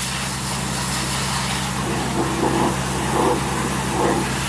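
An engine running steadily with an even low hum, with a few short mid-pitched sounds over it between about two and four seconds in.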